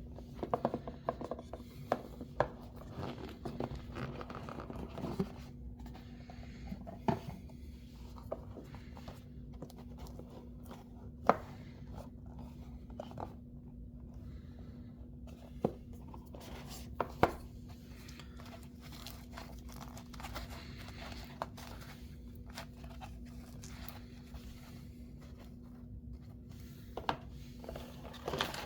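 Packaging being handled and opened by hand: soft rubbing, scraping and rustling broken by scattered sharp clicks and taps, over a faint steady hum.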